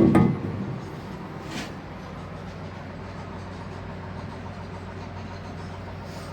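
A loud metallic clank right at the start that rings briefly and dies away, then a faint tap about a second and a half in, over a steady machinery hum.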